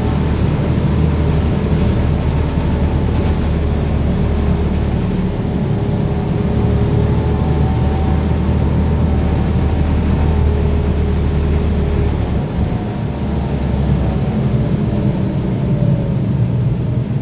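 Cabin sound of a BKM-32102 trolleybus under way: a steady low rumble from the road and running gear, with faint whining tones from the electric drive. The low rumble eases briefly about twelve seconds in.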